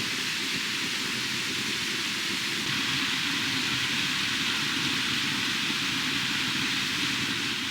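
Food sizzling steadily on a hot grill, an even hiss that grows a little louder about three seconds in.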